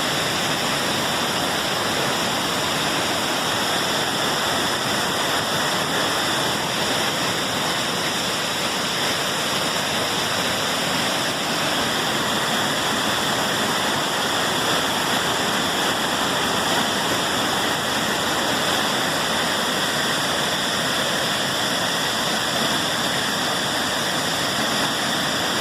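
Waterfall pouring steadily: a constant, unchanging rush of falling water.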